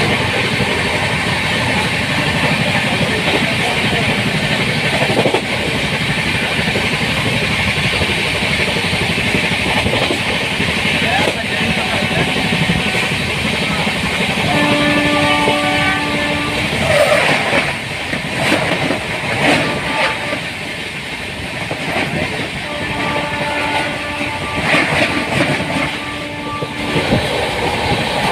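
Express passenger train running at speed: a steady rumble and rattle of the wheels on the track. About halfway through, and again near the end, a steady pitched tone sounds for a second or two over it.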